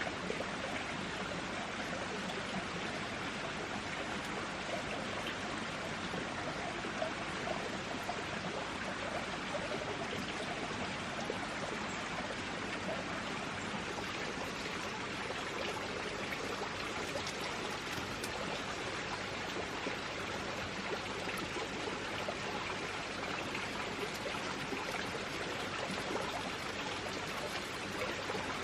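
Steady rushing water, an even hiss with scattered small drips and ticks.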